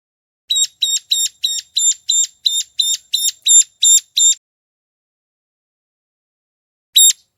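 Recorded ciblek gunung calls played as a bird lure: a quick run of about a dozen short, sharp, high notes, roughly three a second, then after a pause two more notes near the end.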